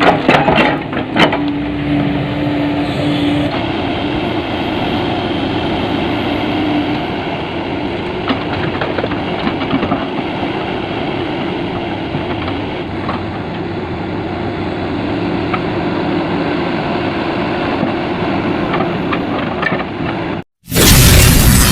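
Heavy diesel machinery of an excavator loading a dump truck, running steadily, with a few sharp knocks in the first second or so. The sound cuts off abruptly near the end and loud music starts.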